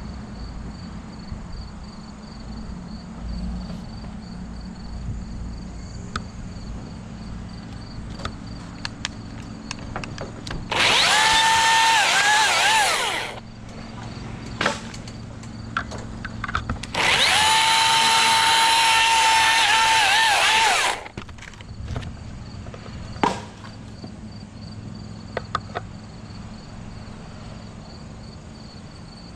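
A saw cutting tree wood in two bursts, one of about two and a half seconds and a longer one of about four seconds, each a high power-tool whine that dips slightly as it works. Crickets chirp steadily behind, with a few sharp knocks between the cuts.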